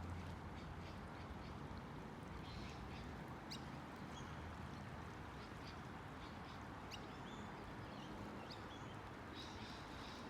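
Faint, short animal chirps and calls, scattered irregularly and high-pitched, over a quiet background with a low steady hum.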